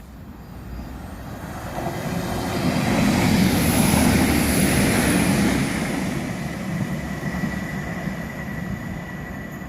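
Northern Ireland Railways diesel multiple unit running through the station at speed on an express without stopping: the rumble and rush swell to a peak about four seconds in, then slowly fade as it goes away, with a thin high whine lingering in the second half.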